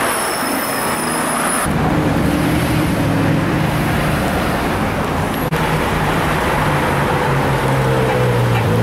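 A car engine running steadily amid road traffic noise.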